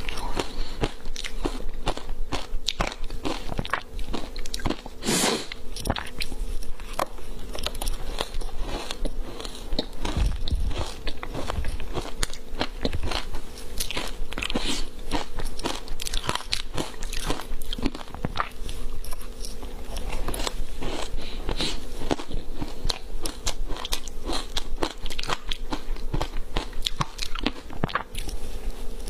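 Biting and chewing frozen matcha powder ice close up: dense, irregular crunches and crackles throughout.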